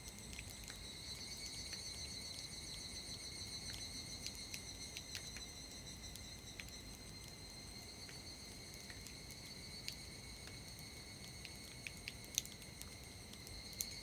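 Chorus of higurashi evening cicadas, a steady high-pitched trilling that holds on without a break. Scattered single water drips tick through it after the rain.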